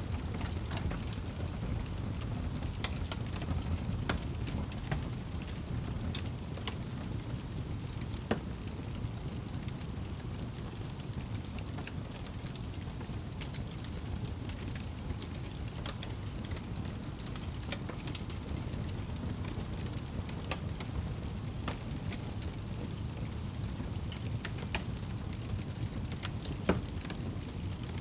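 Wood fire burning in a fireplace: a steady low rumble with scattered sharp crackles and pops at irregular intervals, one louder pop near the end.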